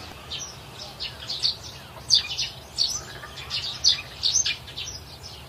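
Birds chirping: many short, high calls overlapping in quick succession.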